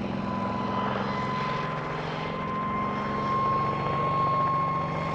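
Helicopter running: a steady engine and rotor drone with a thin high whine on top that rises slightly in pitch, growing a little louder partway through.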